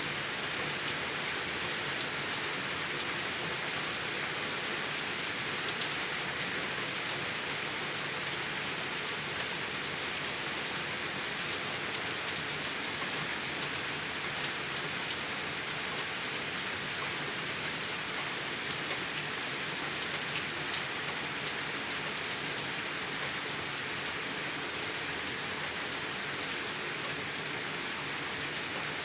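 Steady rain with rainwater running and gurgling, and scattered sharp drop ticks over an even hiss.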